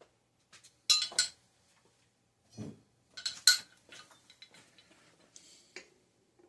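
Metal tools and bicycle crank parts clinking and knocking against each other, in two sharp bursts about a second in and three and a half seconds in, with a duller knock between and softer ticks after.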